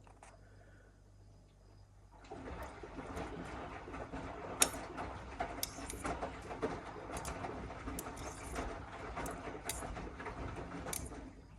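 Miele W1 front-loading washing machine drum starting to turn about two seconds in, wet laundry and water sloshing and tumbling with many small knocks, then stopping shortly before the end: one turn of the wash rhythm.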